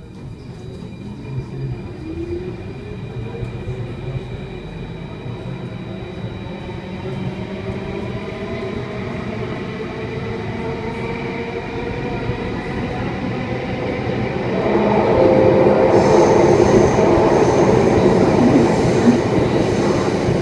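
Alstom Metropolis C830 metro train pulling away and accelerating: the whine of its traction motors rises steadily in pitch as the running noise grows. About 15 seconds in, the wheel and track noise becomes clearly louder, with a high squeal.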